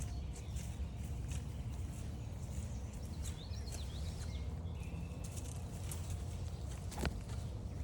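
Footsteps on a forest trail over a low steady rumble, with a short warbling birdsong about three seconds in and a sharp click near the end.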